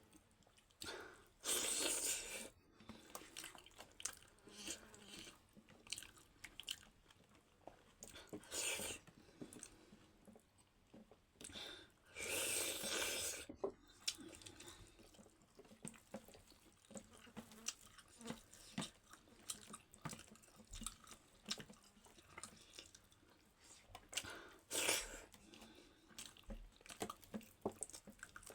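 Close-up eating sounds of someone chewing dhido and chicken, with many small mouth clicks. There are a few louder bursts of noise about 2, 9, 13 and 25 seconds in.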